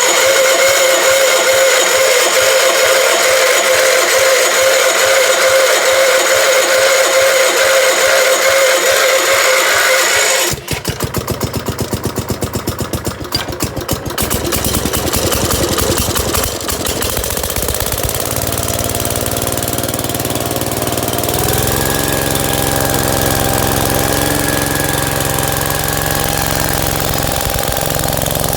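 Kohler K241 single-cylinder engine on a Gravely tractor being cold-started with the choke on after sitting for two months: a steady starter whine for about ten seconds, then the engine catches and runs unevenly before settling into a steady run, its speed stepping up about two-thirds of the way through.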